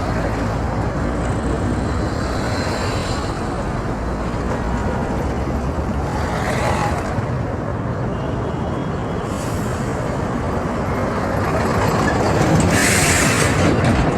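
Road traffic noise: a steady rush with vehicles passing, one swelling by about halfway through and a louder one near the end.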